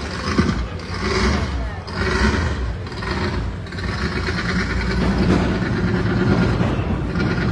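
A car's engine is running and being revved, swelling in level about once a second, with voices over it.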